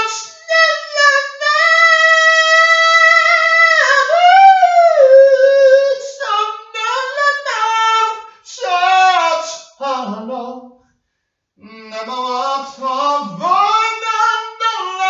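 A single high voice singing with no accompaniment: one long note held for about three seconds at the start, then a winding melodic line, a short break about eleven seconds in, and another phrase.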